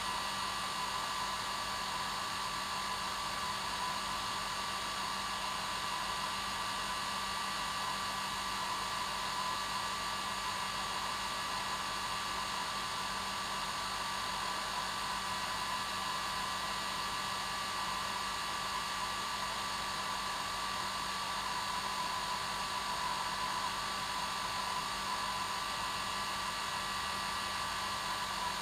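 Hair dryer running steadily: a constant rush of blown air with a whine near the motor's pitch and a low hum, unchanging throughout.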